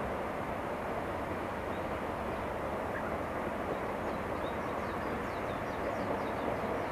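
DD51 diesel-hydraulic locomotive and its train running by in the distance, a steady even rumble. Small birds chirp faintly in the second half.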